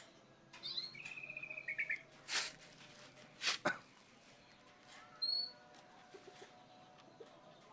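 Animal chirping: a short trilled call, then two sharp knocks or rustles and a brief high whistle-like chirp.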